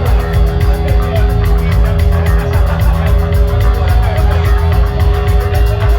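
Loud rock music with guitar and a heavy, pulsing bass end, playing without a break.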